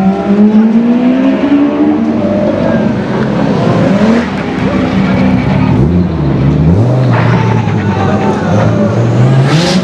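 Supercar engines revving and accelerating hard, echoing in a concrete tunnel. The pitch climbs early on, dips and rises again about six seconds in, then climbs steadily to a high whine that cuts off sharply near the end.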